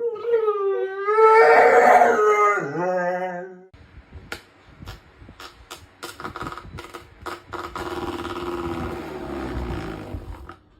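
A dog howling: one long, wavering howl that rises and falls in pitch for about three and a half seconds. It is followed by noisy rustling with sharp clicks, under a fainter, lower howl that sinks in pitch near the end.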